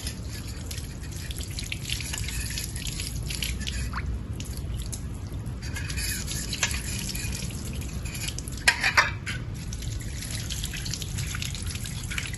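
Tap water running and splashing as washable vacuum cleaner parts are rinsed, with a few sharp knocks about nine seconds in.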